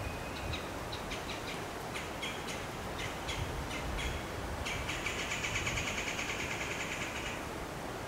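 A songbird calling: a scattered series of short, sharp chip notes, then a rapid, buzzy trill lasting about two and a half seconds near the end. A steady background hiss runs beneath it.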